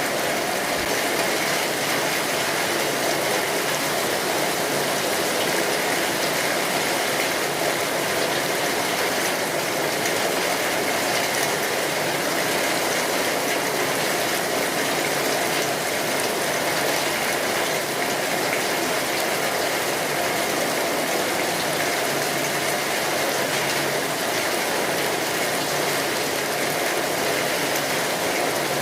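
Steady rainfall, an even wash of falling rain with no separate drops or gusts standing out.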